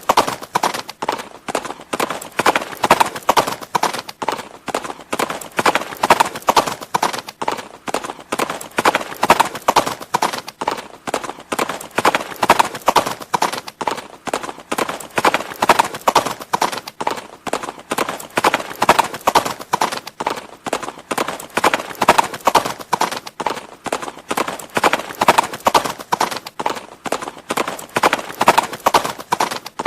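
Horse hooves clip-clopping in a steady, unbroken run of strikes, swelling and easing in a pattern that repeats every three seconds or so.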